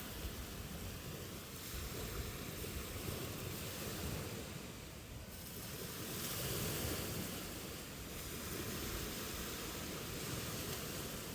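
Ocean waves washing on a shore: a steady rushing surf that swells and eases slowly.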